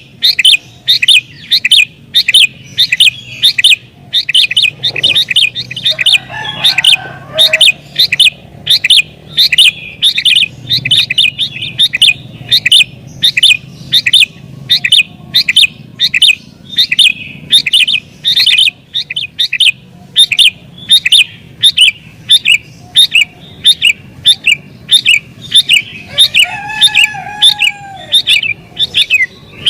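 Sooty-headed bulbul calling non-stop in a fast, loud run of short, sharp chirps, about two a second. This is the agitated, rival-challenging calling that sets other bulbuls off calling too.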